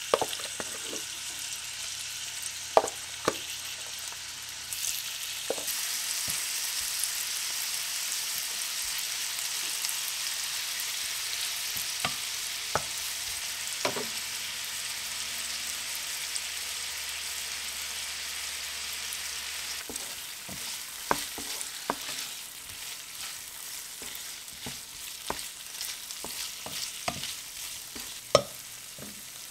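Seasoned chicken pieces sizzling as they fry in oil in a nonstick frying pan: a steady hiss that grows fuller about five seconds in as the pan fills. Scattered light clicks and knocks run through it, coming more often in the last third as a wooden spatula stirs the pieces.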